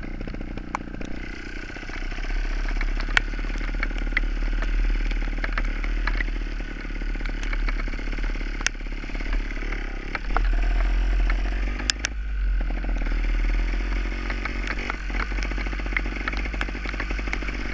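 Two-stroke engine of a Gas Gas trials motorcycle running while riding, its revs rising and falling, with scattered sharp clicks over it. It gets louder about two seconds in and again about ten seconds in.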